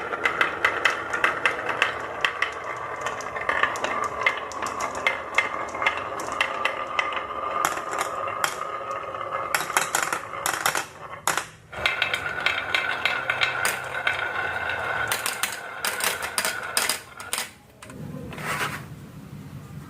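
Marbles rolling down a wooden marble run, a continuous rolling rattle with many sharp clicks as they knock against the track and each other, briefly dropping off twice.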